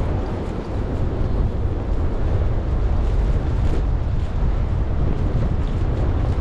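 Wind buffeting the camera microphone during a snowstorm walk: a steady, loud low rumble.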